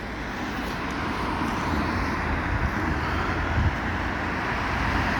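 Steady road traffic noise, a low hum of engines and tyres that grows slightly louder as the seconds pass.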